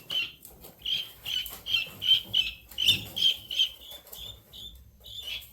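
Guinea fowl peeping, a rapid run of short, high, evenly pitched calls about two to three a second, with faint rustling as the birds shift about.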